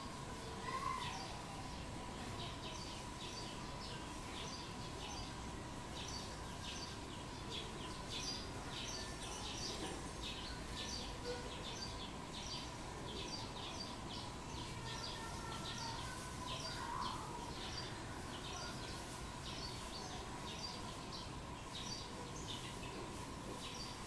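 Small birds chirping in quick, high-pitched notes, about two or three a second, over a steady thin tone, with a couple of brief lower calls about a second in and again past the middle.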